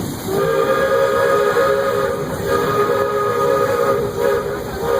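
Steam locomotive's chime whistle blowing one long blast of several notes sounding together. It starts just after the beginning and breaks off a little before the end.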